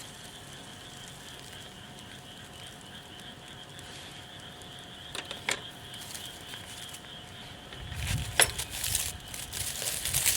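Steady high-pitched chirring of an outdoor evening chorus, with a few sharp clicks about five seconds in and again near the end, where rustling and handling noise begin.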